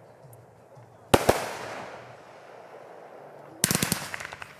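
Fireworks going off: two sharp bangs about a second in, then a fast crackling string of reports near the end.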